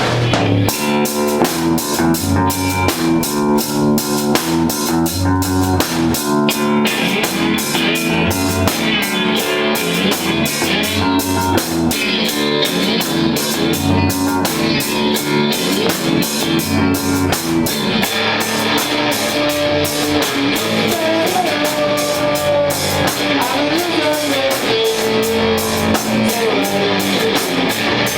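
Live punk-rock band playing: distorted electric guitar riffs, bass guitar and a drum kit keeping a steady, fast beat. About two-thirds of the way through the part changes and a higher melodic line that bends in pitch comes in over the rhythm.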